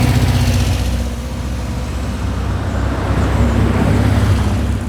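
Cars pulling in at low speed, their engines running with a steady low rumble.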